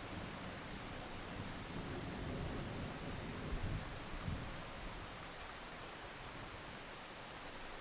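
Steady hiss of rainfall with the low rumble of distant thunder fading away about four to five seconds in.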